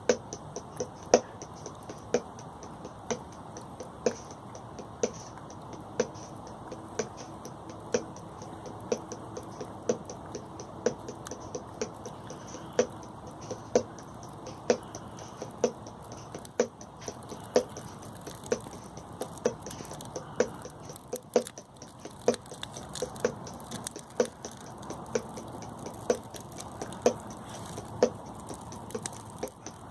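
Hammer blows on an unheated iron bar resting on a stone, a sharp knock about once a second. The bar is being cold-forged into a knife blade.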